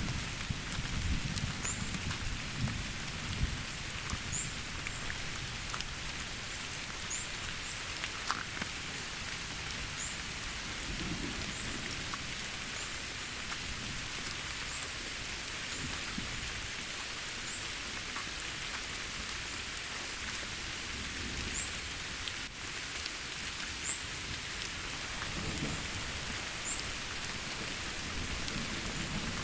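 Steady rain falling on rainforest foliage, with a constant high-pitched whine over it and short faint chirps every couple of seconds. A low rumble comes near the start and again near the end.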